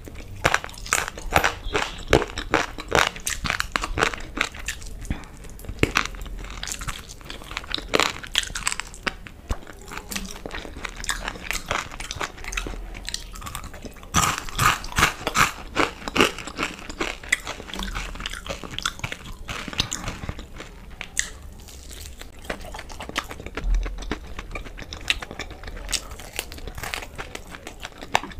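Close-up eating sounds of a fried chicken lollipop: crisp, crunchy bites into the fried coating and meat, with wet chewing in between. The crunches come in bunches of quick clicks, with quieter chewing stretches between them.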